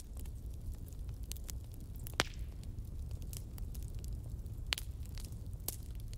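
Fire crackling: scattered sharp pops and ticks over a low steady rumble. The strongest pop comes about two seconds in, and two more come near the end.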